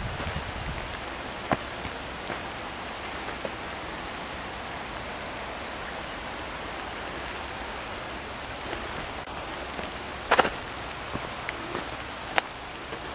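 Steady rain falling on the leaves of the woods: an even hiss, broken by a few sharp taps, the loudest about ten seconds in.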